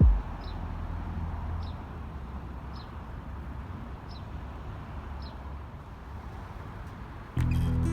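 Street ambience: a low rumble of passing traffic with a loud low thump at the start, and a short high chirp repeating about once a second. Background music cuts in abruptly near the end.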